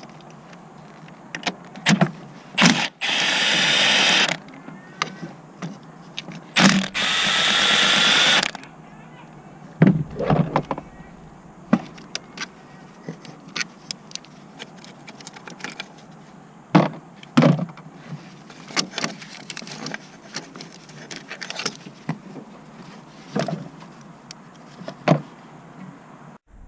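Work on a car's clutch with tools: two short runs of a cordless power tool, each about a second or more long, among scattered metallic clicks, clinks and knocks of tools and parts.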